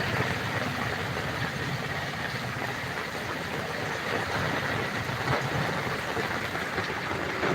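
Heavy rain pouring and water rushing, a steady dense hiss.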